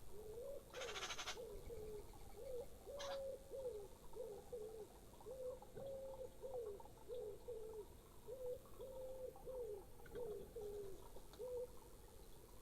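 A pigeon cooing, a long run of low repeated coo notes in phrases. A short scratchy sound about a second in and a brief high note near three seconds.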